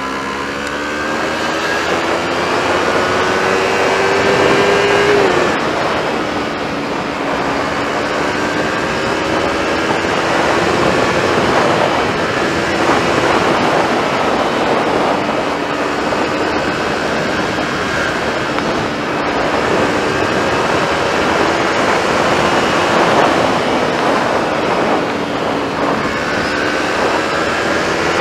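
Yamaha MT-03 motorcycle engine running with the exhaust end-piece removed, heard from the bike while riding. The pitch rises over the first five seconds, drops sharply, then climbs slowly at moderate throttle with a second drop near the end, over wind and road noise.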